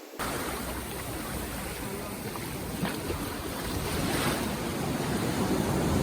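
Surf washing onto a sandy beach, with wind buffeting the microphone: a steady rushing noise that grows slightly louder toward the end.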